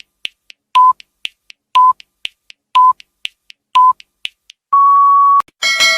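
Countdown-style sound effect: a short electronic beep once a second with quicker ticks in between, then one longer, slightly higher beep, followed near the end by a bright bell-like ding.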